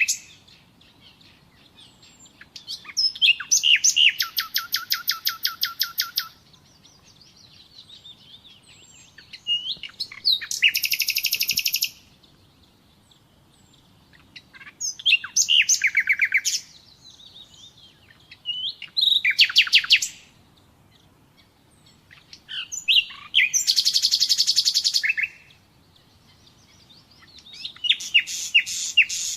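Nightingale singing: about six separate song phrases, each a couple of seconds of rapid repeated notes and sweeping whistles, with pauses of two or three seconds between them.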